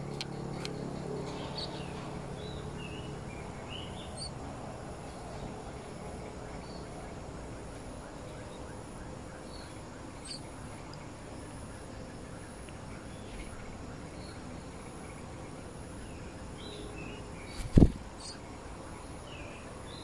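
Faint, scattered short bird chirps over steady outdoor background noise, with one sharp thump a couple of seconds before the end.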